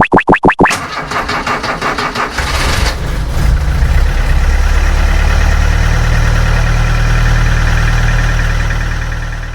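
Engine sound of a monster truck. A fast, even pulsing stops under a second in, then a deep engine rumble builds about two to three seconds in and runs steadily, starting to fade at the end.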